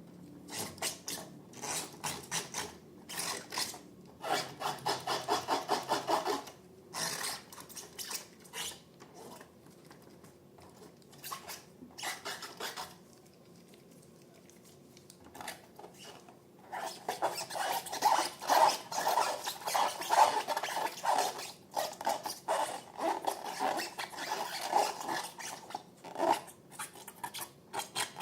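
Slime being mixed and worked by hand, a quick run of rubbing, scraping strokes several times a second. The strokes ease off in the middle and pick up again densely after about seventeen seconds.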